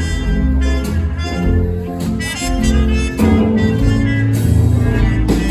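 Live band playing an instrumental passage of a country-style song, with a steady bass line and beat under the melody.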